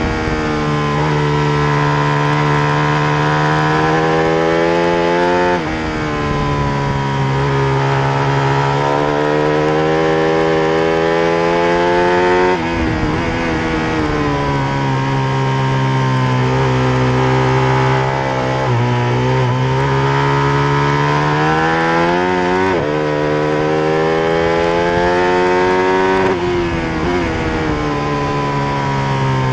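Ducati Panigale 1199R superbike's Superquadro V-twin engine at racing speed, seen from onboard. Its pitch climbs through the revs and then drops sharply at each of several gear changes.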